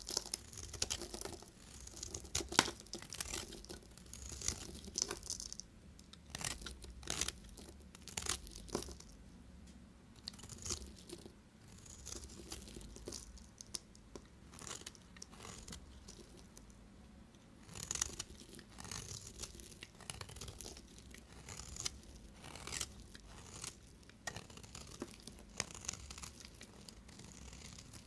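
A knife cutting through bars of soap, making irregular crisp crunches and short scraping strokes.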